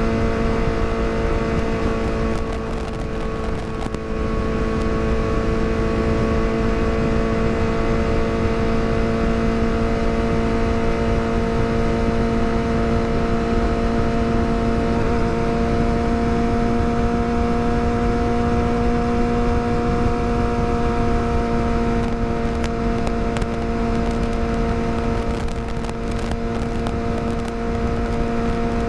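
Yamaha R6 inline-four sport-bike engine running at steady, fairly high revs while cruising, over a low rush of wind noise. The engine eases off slightly about three seconds in, then holds a constant pitch.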